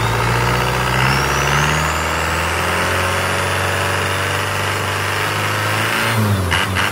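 Isuzu 4JB1 four-cylinder diesel engine running steadily at raised revs, then dropping back about six seconds in to a slower, pulsing beat.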